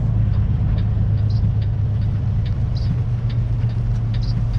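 Kenworth semi truck's diesel engine running at low speed, heard from inside the cab as a steady low drone, with light scattered ticks and rattles over it.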